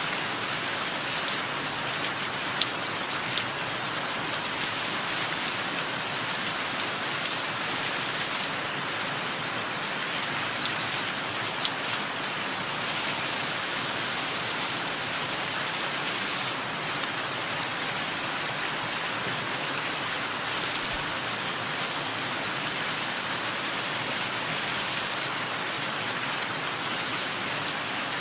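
Steady rain falling, with a bird repeating short, high, falling chirps in quick groups of two or three every few seconds.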